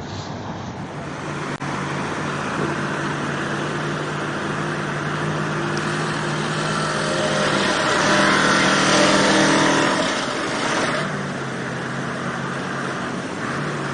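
A heavy vehicle engine runs steadily under load. A louder rushing noise builds up about six seconds in and drops back about eleven seconds in.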